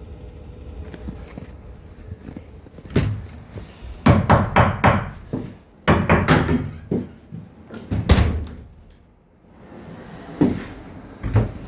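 A series of loud knocks and thumps, like a door or panel being handled, over the steady low hum of a Fogatti propane furnace that has just lit.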